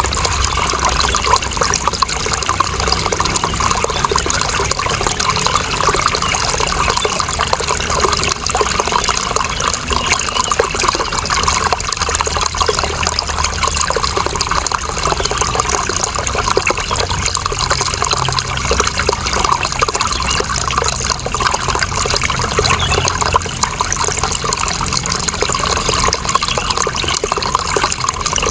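Water flowing steadily: a continuous, even splashing noise with no breaks or changes.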